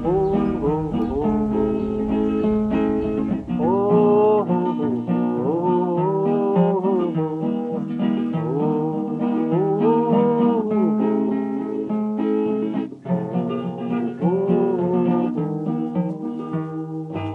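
Folk song ending on an instrumental passage: acoustic guitar accompaniment with a melody line that slides up and down over it, cutting off abruptly right at the end.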